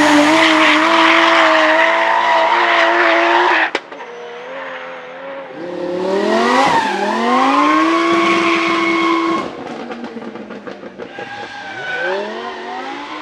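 Drift car engine held at high revs with tyres squealing and skidding. It cuts off suddenly about four seconds in, revs back up and holds until about nine and a half seconds, drops away, then rises again near the end.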